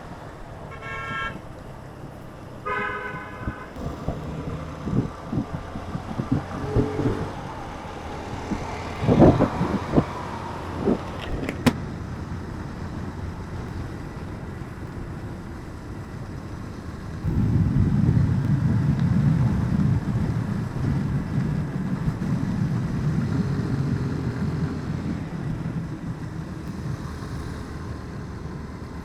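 Road traffic with two short vehicle horn toots in the first few seconds. Scattered knocks follow. In the second half a louder low rumble of a passing vehicle or engine swells for several seconds, then eases off.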